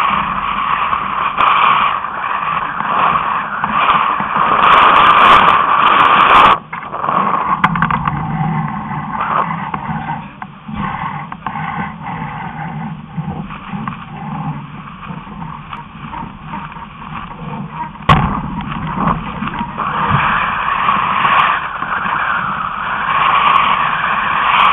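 Rushing wind and water noise on a sailing catamaran, loud and unsteady. It drops abruptly about six and a half seconds in, there is a sharp click about 18 seconds in, and it grows louder again near the end.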